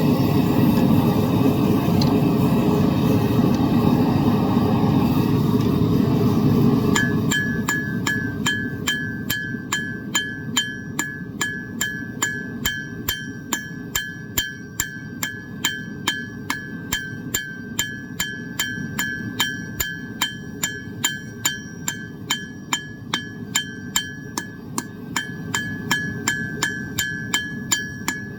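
A propane forge burner runs with a steady rush. About seven seconds in, a hammer starts striking hot metal on an anvil at a regular pace of roughly two blows a second, and each blow rings with a bright metallic tone. The burner keeps running beneath the blows.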